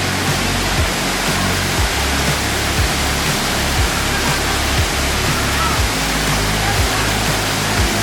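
Waterfall rushing in a steady, dense roar, under background music with a slow beat of about one stroke a second and a deep bass line.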